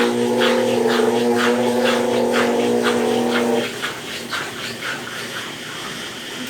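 Consul Facilite 10 kg (CWC10) top-loading washing machine in its wash cycle after a mechanical overhaul: the motor hums steadily while water swishes in a rhythm about twice a second. The motor cuts off about three and a half seconds in, and the swishing goes on more quietly as the drum settles.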